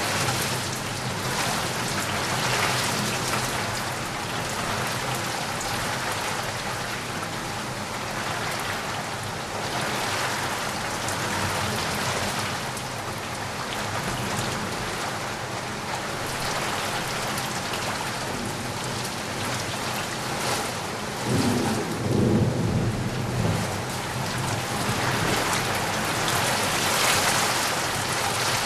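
Steady heavy rain hissing, swelling and easing in slow waves. About three quarters of the way through, a low rumble of thunder rolls in for a couple of seconds and is the loudest moment.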